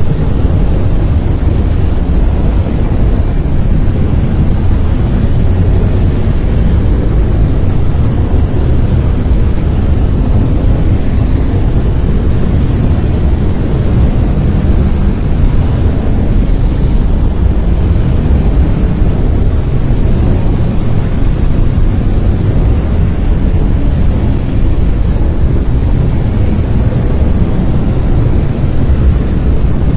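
Brown noise: a steady, deep rumbling hiss, heaviest in the bass and thinning toward the treble, with no changes in level or character.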